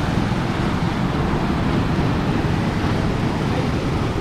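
Ocean surf rushing on the beach, with wind buffeting the microphone in a steady low rumble.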